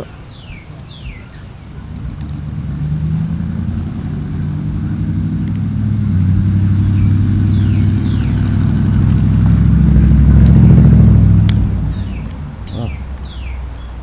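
A motor vehicle passing by: a low engine rumble that grows louder over several seconds, peaks about ten seconds in, then fades away. Short, high, falling bird chirps come at the start and again near the end.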